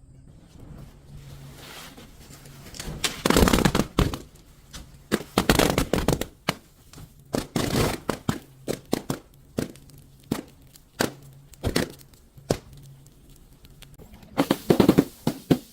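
Brittle things being crushed: an irregular run of sharp cracks and crunches, some in quick clusters, starting about three seconds in.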